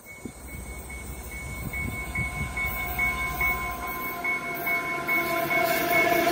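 Diesel locomotive leading an AMT commuter train, approaching and growing steadily louder: engine hum and rail noise, with its bell dinging steadily about two or three times a second.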